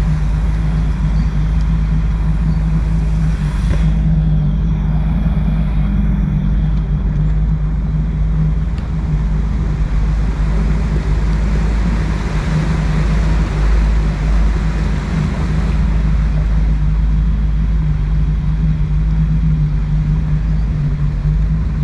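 Boat engine running steadily at a constant speed, a low even drone with a steady hum. It is the engine that cuts out moments later.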